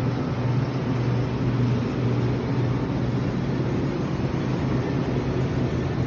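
Steady low machine hum with a constant noisy wash, no strokes or changes.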